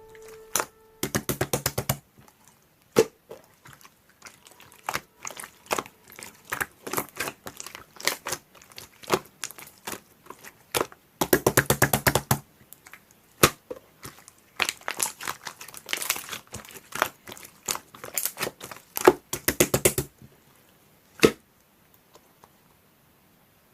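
Slime being squeezed and poked by hand, giving crackling pops and clicks from trapped air. Dense rapid runs come about a second in, around the middle and through the last third, with a single click after them.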